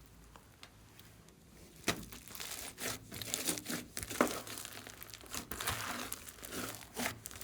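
Slime being kneaded and squeezed by hand, sticky crackling with sharp popping clicks, quieter for the first second or so and then busy.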